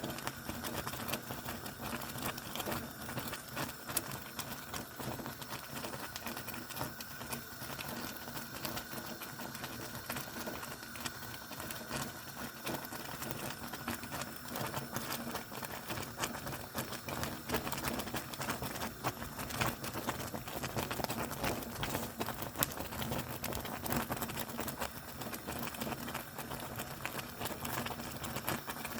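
Thick sorghum-meal sadza boiling in a pot, bubbling with a rapid, irregular run of pops and plops as bubbles burst through the stiff porridge.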